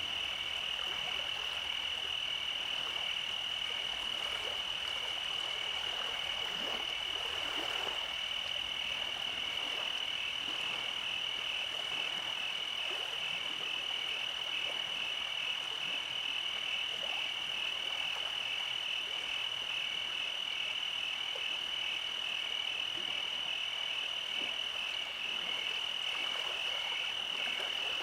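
A steady night chorus of frogs: many calls blend into one unbroken high-pitched trill that pulses rapidly and never lets up.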